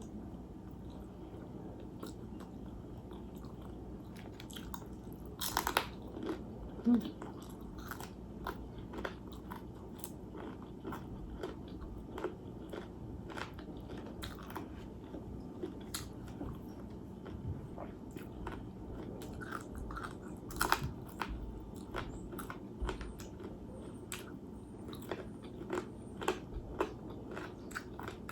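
A person chewing and biting food close to the microphone, with many small crunchy clicks and a few sharper, louder ones.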